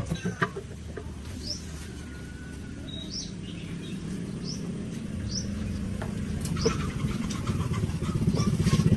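Birds chirping in short, high, rising calls, several times over a low engine rumble that grows louder toward the end.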